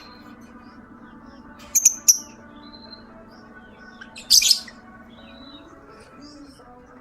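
Lovebird in breeding condition giving short, shrill chirps in two loud bursts, a double one about two seconds in and another about four and a half seconds in, with fainter chirps between. Soft sustained background music runs underneath.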